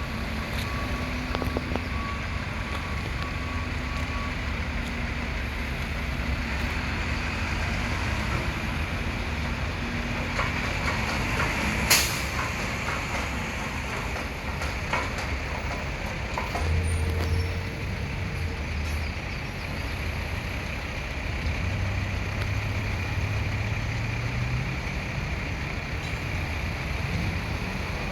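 Mack front-loader garbage truck's diesel engine running steadily, with a reversing beeper sounding for the first few seconds. There is one sharp bang about twelve seconds in, and later the engine revs up.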